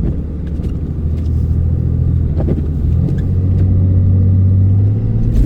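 Pickup truck engine working under load as the truck pushes through deep, heavy wet snow, its low hum climbing in pitch and loudness about three seconds in.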